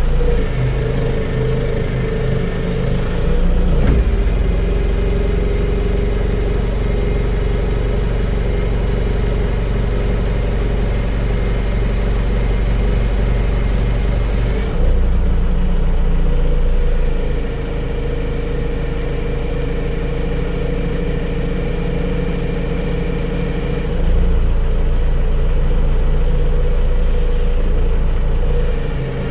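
Engine running steadily, loud throughout, its note and load shifting about halfway through and again near the end, with a thin steady whine in the middle stretch.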